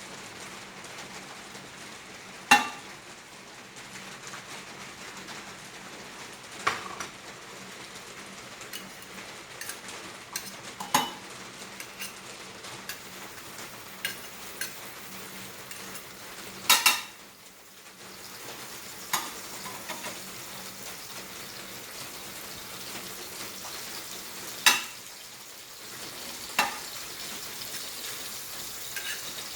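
Bread toasting in a frying pan with butter or margarine sizzling steadily, broken by several sharp knocks and clinks of a metal utensil against the pan.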